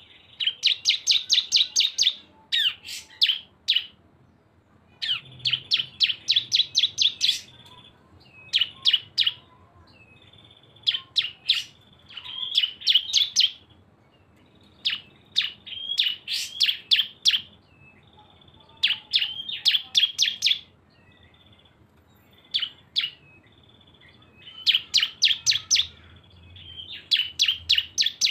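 Cisem (ciblek-type prinias, two birds) singing in the rapid 'ngebren' chatter: repeated bursts of quick, sharp, high chirps, each burst a second or two long with short pauses between.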